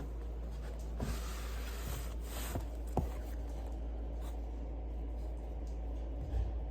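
Rubbing and scraping of things being handled, with a few light clicks and knocks about a second, two and a half and three seconds in, over a steady low hum.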